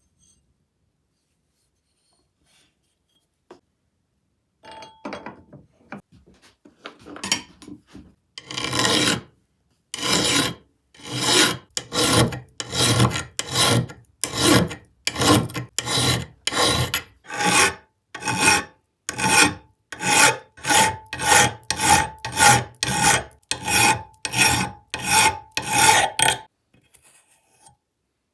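Hand file or rasp worked in steady back-and-forth strokes, about one and a half strokes a second. The strokes start faint and uneven, grow loud and regular, then stop near the end.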